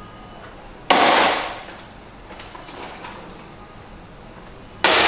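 A liquid-filled 1-litre plastic spout pouch dropped onto the floor in a drop test, landing twice with a sharp slap, about a second in and again near the end, each fading over about half a second. Lighter knocks come between the two drops.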